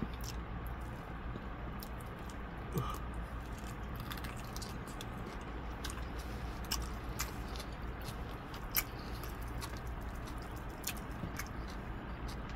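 A mouthful of country-style ribs being chewed close to the microphone, with scattered soft clicks and a steady low hum.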